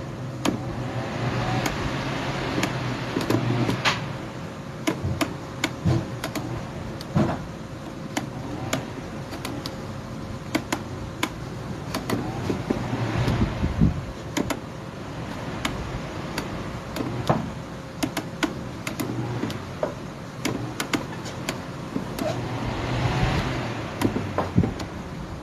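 Electric fan running with a steady hum that swells and fades about every ten seconds, with many short, irregular clicks and ticks.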